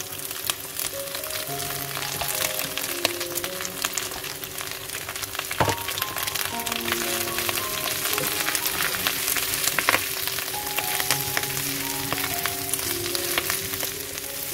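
Sausage, egg and mustard greens sizzling and crackling in hot oil in a frying pan as a spatula stirs them, with a couple of sharper spatula knocks against the pan around the middle. Soft background music with held notes plays underneath.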